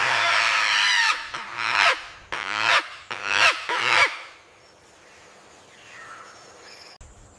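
An animal calling loudly: one long call of about a second, then four shorter calls in quick succession.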